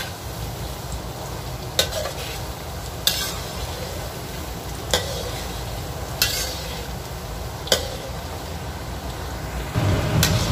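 Tempe frying in hot oil, a steady sizzle, with a utensil knocking against the pan five times as the pieces are turned. A low rumble comes in near the end.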